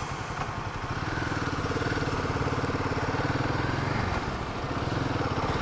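Royal Enfield Himalayan 450's single-cylinder engine running on the move, its pitch rising a little about a second in and then holding steady.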